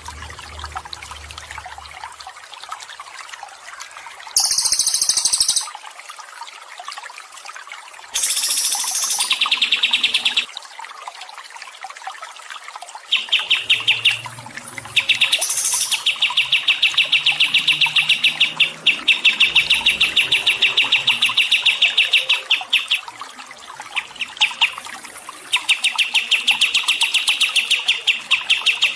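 A small songbird singing in rapid, pulsed chirping runs that start about halfway through and carry on with short breaks. A steady trickle of water runs underneath. Two shorter, very high chirping bursts come earlier.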